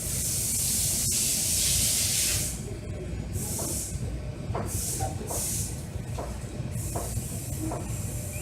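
Car wash spray jets hissing: a long loud spray, then several shorter spurts, over a steady low machine rumble.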